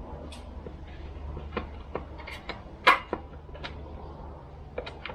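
Light clicks and knocks of hand tools and small chainsaw parts being handled, with one sharper knock about three seconds in, over a steady low hum.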